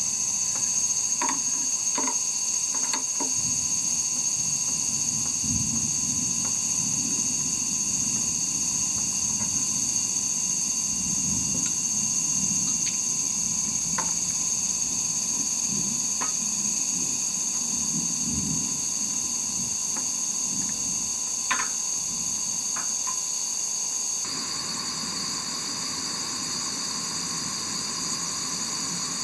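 Steady, shrill chorus of summer insects, with a few faint clicks and soft low rumbles underneath; the chorus changes character about three-quarters of the way through.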